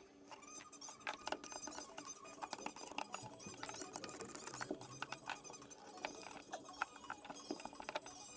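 Faint, rapid, irregular clicks and taps over soft steady tones.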